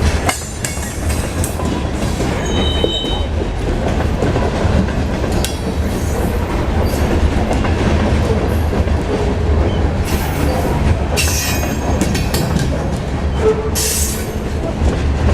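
Freight train cars rolling past close by, with a steady low rumble, wheels clicking over rail joints, and a brief high wheel squeal about two and a half seconds in.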